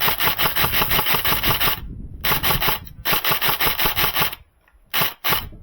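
Airsoft electric gun (AEG) firing on full auto in several bursts: a long burst of rapid, even-paced shots, a short one, another long one, then two brief bursts near the end.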